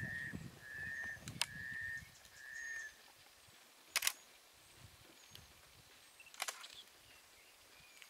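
A bird calls a series of short, level notes, about one every 0.8 seconds, which stop about three seconds in. Camera shutters click sharply, three times in all, the loudest about four seconds in.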